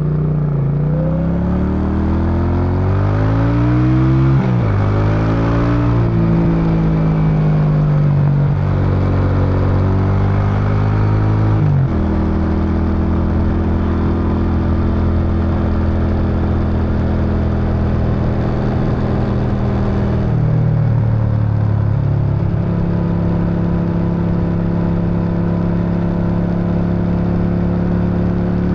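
Suzuki Intruder VS800's V-twin exhaust while riding: the engine revs up through the gears, with a sudden drop in pitch at each upshift, about 4 and 12 seconds in. It then cruises at a steady pitch, easing off briefly near the 20-second mark before picking up again.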